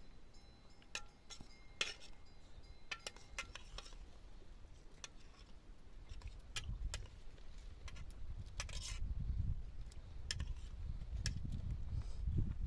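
Scattered sharp clinks and taps of hard objects, a few ringing briefly, thickest in the first few seconds. A low rumble builds through the second half.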